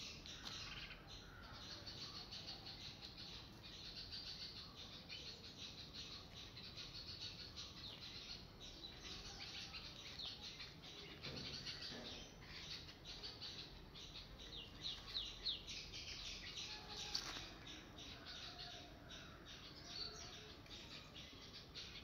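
Small birds chirping and calling in a dense, faint chorus, with a few louder chirps about two-thirds of the way through.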